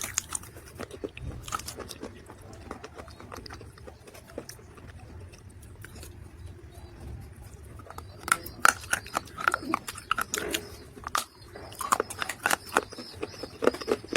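Dry mud crunching and crumbling close to the microphone: scattered small cracks, then a dense run of sharp crunches from about eight seconds in.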